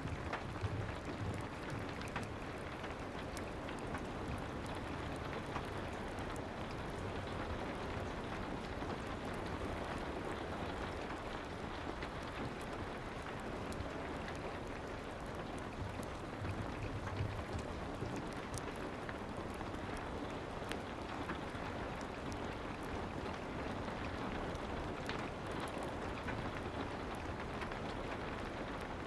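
Soft rain falling steadily, mixed with the faint scattered crackles of a fireplace.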